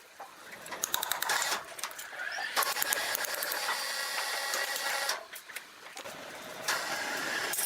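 Wood-cutting machinery running with a fast, dense mechanical clatter that dips a little after five seconds and comes back.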